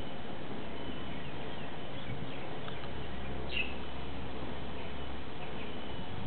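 Birds chirping briefly over a steady background hiss, with the clearest chirp about three and a half seconds in.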